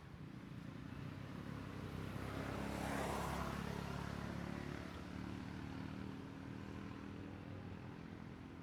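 A motor vehicle driving past, its engine and tyre noise growing louder to a peak about three seconds in, then fading away.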